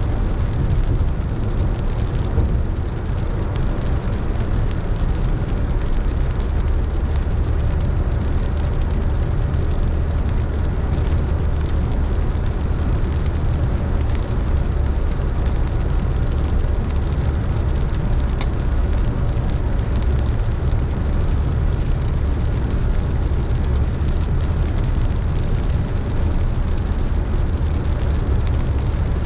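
A car driving on a wet road in rain: a steady low rumble of road and engine noise with the hiss of rain and wet tyres, and scattered raindrops ticking on the car.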